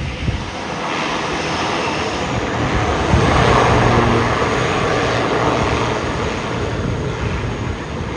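Jet airliner's turbofan engines passing close by, a loud rushing roar that swells from about a second in, peaks around the middle and slowly fades.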